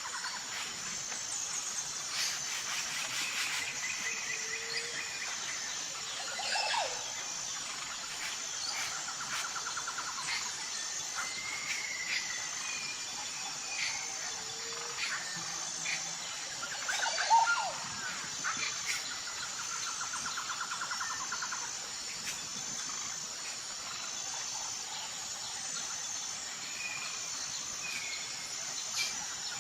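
Tropical forest ambience: birds calling and chirping over a steady high-pitched insect trill, with a lower pulsing trill coming and going.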